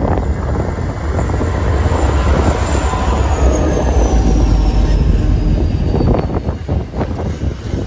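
Pacific National G-class diesel-electric locomotive passing close by, its engine rumbling deeply, with a high whine that falls in pitch as it goes past. Container wagons follow, their wheels clacking over the rail joints a few times near the end.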